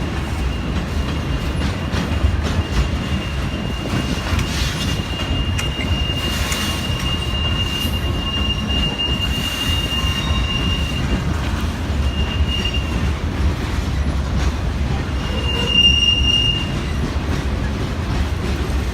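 A train rolling along the rails with a steady low rumble, its wheels giving a thin, high squeal that holds for several seconds, fades, and comes back briefly near the end.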